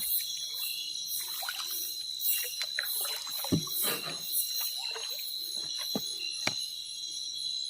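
Water splashing and trickling, with a few sharp knocks, over a steady high-pitched insect chorus.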